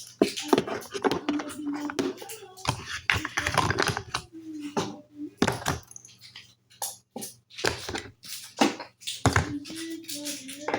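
Irregular quick clicks and knocks of small hard objects being handled, with brief snatches of a child's soft voice in between.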